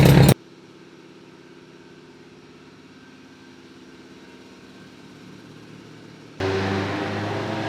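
Turbocharged Subaru STi boxer engine running at a low, steady idle, heard faintly. About six seconds in, it cuts to the same engine much louder under load on the dyno, starting to climb in revs. A loud sound stops abruptly right at the start.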